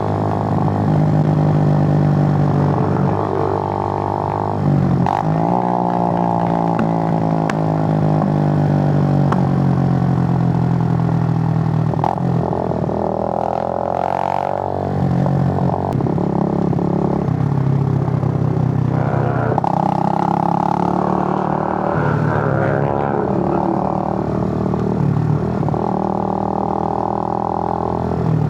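Suzuki GN125's single-cylinder engine running on the move, its note sliding up and down with engine speed and broken by several short dips, as when changing gear.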